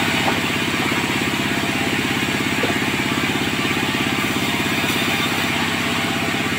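Sawmill machinery running steadily: an engine-driven mill with a fast, even pulse and a hiss over it.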